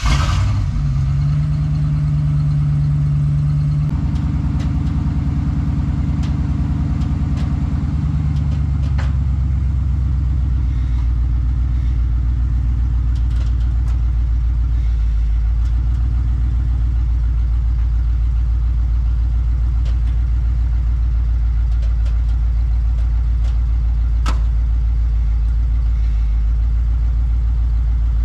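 Ford 5.0-litre V8 with no exhaust fitted, catching just after cranking and running loud and open. It holds a fast idle at first, drops to a lower idle about eight seconds in, then idles steadily.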